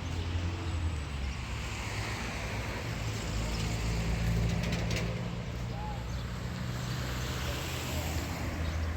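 Car engine running steadily with road noise, a low even hum.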